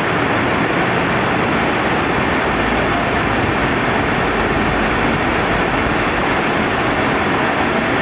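Steady rain falling by a flowing river: a loud, even, continuous hiss of water with no breaks.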